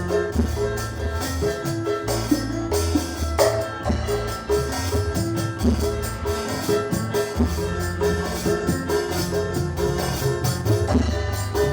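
A nada dan sholawat band playing an instrumental passage at a sound check: steady drums and percussion over a bass line and a melody of short repeated notes, with no singing.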